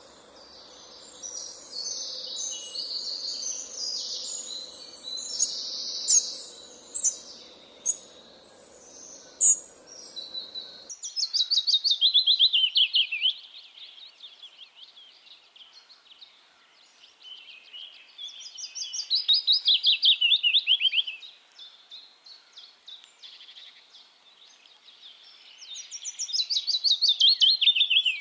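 Songbirds chirping busily over a steady background hiss, which cuts off abruptly about eleven seconds in. Then a single bird sings three loud phrases about seven seconds apart, each a rapid trill of notes falling in pitch over about two seconds.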